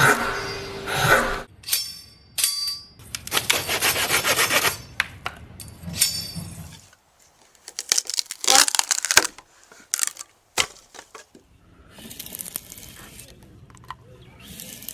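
Hand woodworking on wood in several separate bursts: tools scraping and rasping against wood, with a fast run of ticks in the middle and a cluster of sharp knocks.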